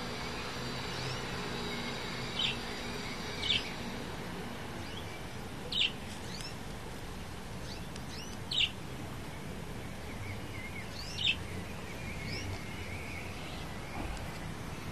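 A bird chirping in the background: single short, sharp falling chirps every couple of seconds over steady outdoor hiss.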